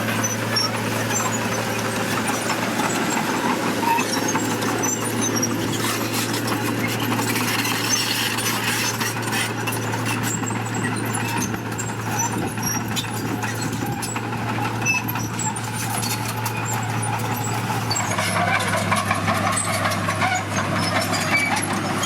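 Heavy diesel construction machinery running steadily, with a constant low engine drone and scattered clicks and knocks.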